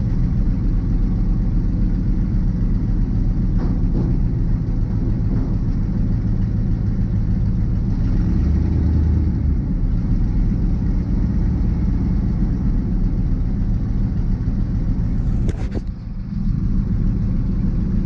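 6.2 L Detroit V8 diesel of a 1985 GMC 3500 running steadily at idle. There is a brief knock about fifteen seconds in.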